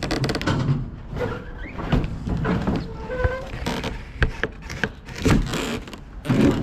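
A heavy cardboard box being dragged and shifted across a floor: uneven scraping with knocks and clicks, and a brief squeak about three seconds in.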